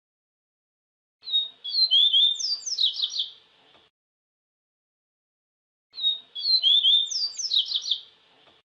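Papa-capim (a Sporophila seedeater) singing: two matching song phrases of about two and a half seconds each, quick high sliding whistled notes ending in a fast run of down-slurred notes, the first about a second in and the second about six seconds in.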